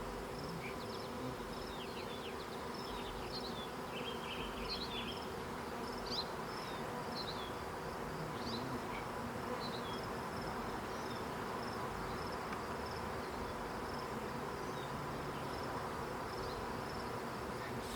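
Swarm of honey bees buzzing, a steady hum of many wings.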